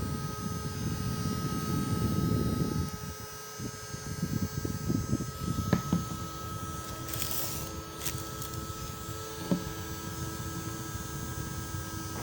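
Mini electric fan running: a steady motor whine, with its airflow buffeting the microphone as an uneven low rumble. A couple of sharp clicks come midway.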